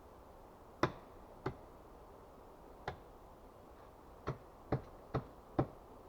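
Seven sharp wooden knocks or cracks at uneven spacing, the last four coming quicker, about half a second apart.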